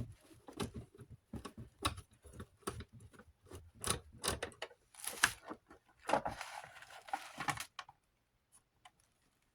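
Loose plastic pieces rattling and clicking around inside the base of a Galaxy 9-inch desk fan as it is tipped and shaken: irregular clicks and short rattles that stop about eight seconds in. The pieces are broken-off bits of the fan's adjustment mechanism.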